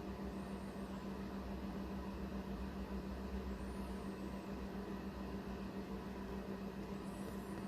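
A steady low hum over even background hiss, with a few faint, brief high chirps.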